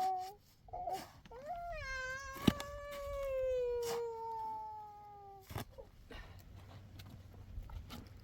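An animal's long wailing call that slowly falls in pitch over about four seconds, after two short calls, with a sharp click in the middle.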